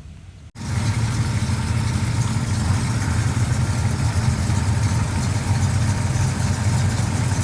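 A vehicle engine idling steadily, cutting in abruptly about half a second in.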